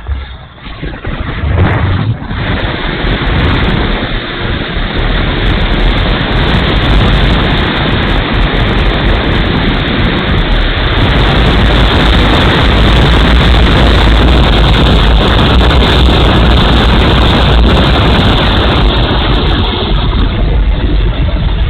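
Strong wind buffeting the microphone: a loud, steady rumbling rush that builds over the first couple of seconds, then holds.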